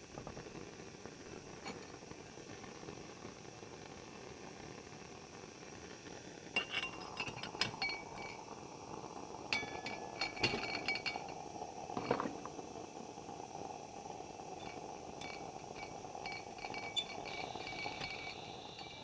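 Light glassy clinks and short chime-like ringing over a steady hiss. The clinks start about a third of the way in, come in clusters through the middle and thin out toward the end.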